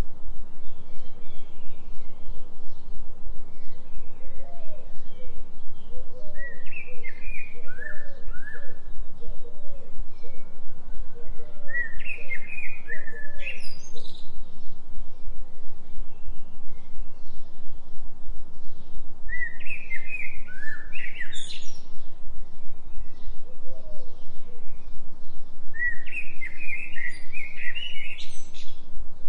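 A songbird sings short phrases of quick chirps four times, about every seven seconds, with softer lower chirps through the first half. Under it runs a steady low droning tone with a fast, even pulse: a delta-frequency binaural beat layered under forest sounds.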